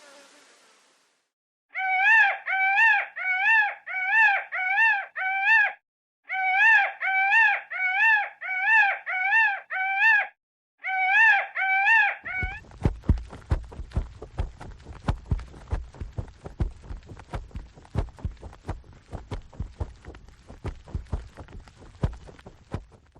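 An animal call, a short pitched cry that rises and falls, repeated about twice a second in three runs. It gives way to about ten seconds of rapid, irregular clicks and knocks.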